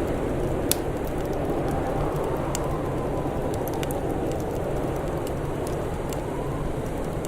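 Wood fire crackling, with scattered sharp pops and snaps over a steady low rushing noise.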